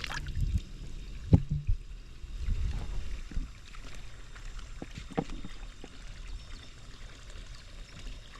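Pool water sloshing and trickling, with a few light knocks.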